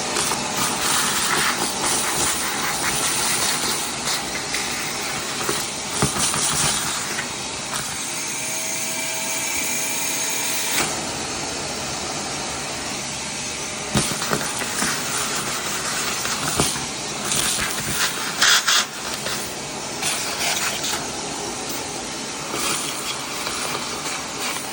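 Vacuum cleaner running steadily while sucking dirt and debris off a neglected engine, with occasional clicks and knocks. A thin whistle sounds for a few seconds near the middle.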